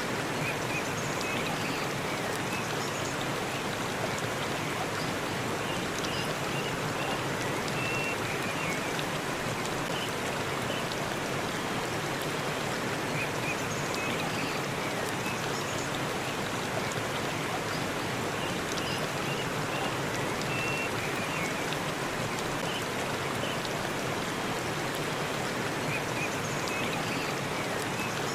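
Waterfall: a steady, even rush of falling water, with faint high chirps now and then.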